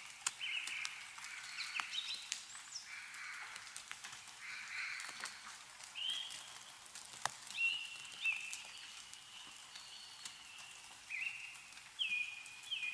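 Birds calling in short, repeated pitched notes throughout, over scattered sharp ticks of meltwater dripping from snow-laden trees.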